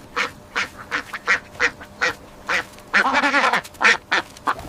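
Duck quacking in a quick series of short calls, about two a second, with one longer wavering call a little after three seconds in.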